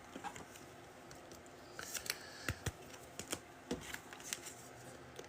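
Trading cards being handled and flipped through: scattered light clicks and taps of card stock, with a brief crinkling rustle about two seconds in.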